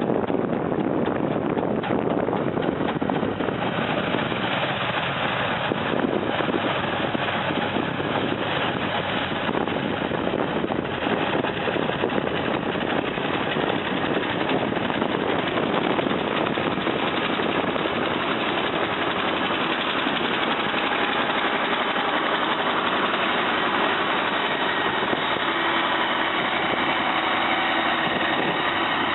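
Heavy snow-removal machine running steadily: a constant engine sound mixed with a dense, even rushing noise.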